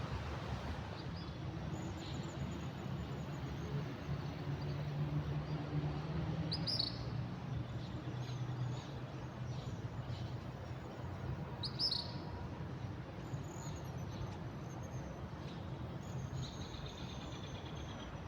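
Wild birds chirping and singing intermittently, with two sharper chirps about 7 and 12 seconds in and faint high whistled notes between. A steady low rumble runs underneath.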